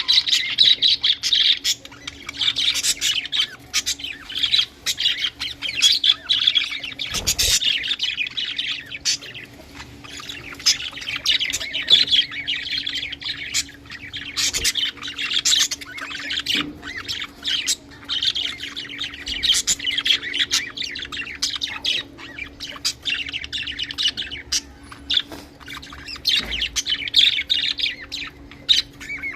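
Budgerigars chattering and warbling, several birds at once, with sharp chirps and clicks throughout.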